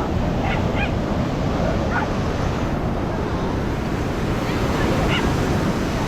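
Ocean surf breaking on the beach, a steady rush of waves, with wind buffeting the microphone.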